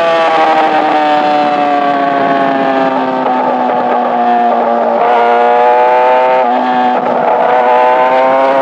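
Yamaha R6 sportbike's inline-four engine running at high revs. Its pitch sinks slowly for about five seconds, then the revs climb again in a few short steps over the last few seconds.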